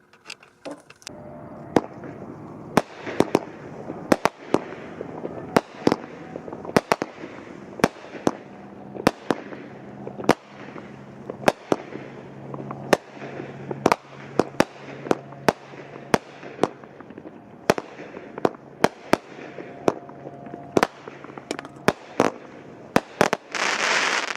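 A Wild Dragon 'Dozen Demons #3' 200-gram consumer fireworks cake firing its 25 shots in quick succession: sharp launch thumps and bursting reports, roughly one every half second to second, starting about a second in. A louder rushing noise lasts about a second near the end.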